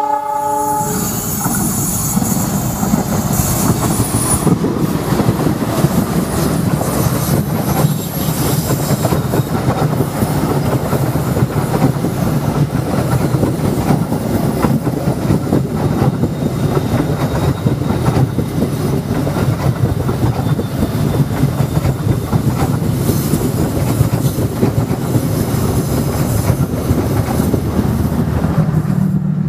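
Passenger train running past: a continuous loud rumble of wheels on rail, with a high-pitched wheel squeal over the first four seconds or so.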